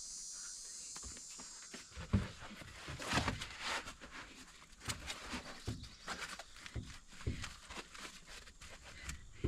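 Irregular rustling, scuffs and knocks of a person moving about and handling gear, with a steady high whine that fades out about two seconds in.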